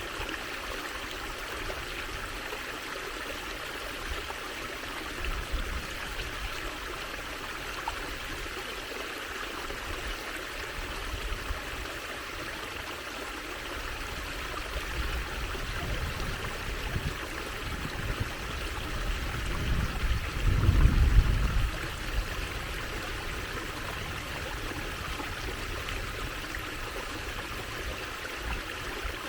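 Water trickling steadily, an even rushing hiss. A low rumble swells about two-thirds of the way through and then dies away.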